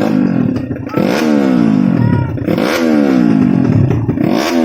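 Tuned Yamaha Jupiter underbone racing motorcycle engine being revved in blips: three times the pitch shoots up and then slides back down as the revs fall away.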